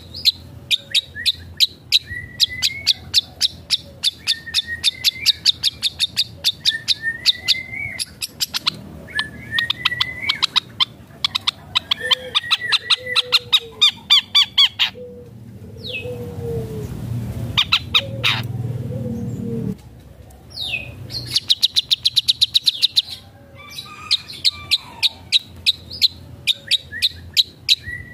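Long-tailed shrike (cendet) in full song: fast runs of sharp chattering notes, about six a second, broken by short rising whistles and mimicked calls of other birds. The song pauses a few times.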